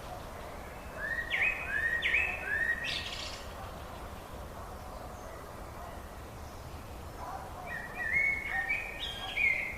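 Songbirds singing: a phrase of three short rising whistled notes about a second in, and another quicker run of notes near the end, over a steady low background hiss.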